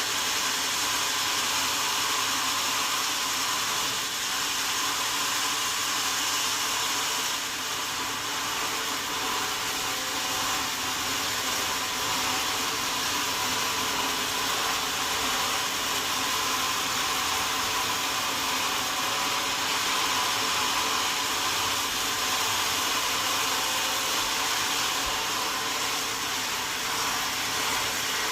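Sawmill saw running steadily through wadang timber, a continuous high whirring hiss with a faint whine.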